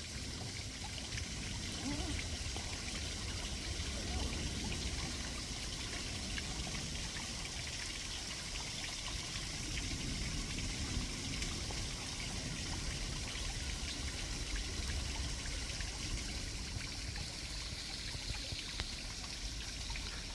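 Small waterfall with a light flow, trickling and splashing steadily.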